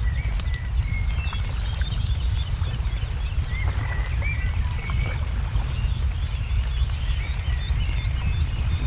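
Crackling wood fire with scattered sharp pops over a steady low rumble, while small birds chirp and twitter in short repeated calls.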